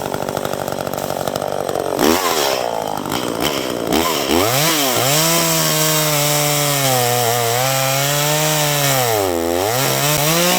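Small Echo two-stroke chainsaw running, then working into wood: its engine pitch sags and recovers under load, with a deep dip about nine seconds in. The chain is dull; the owner calls it trash even though he sharpened it that day.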